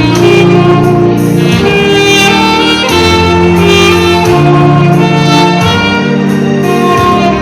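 Saxophone playing a melody in long held notes over a musical accompaniment with a bass line.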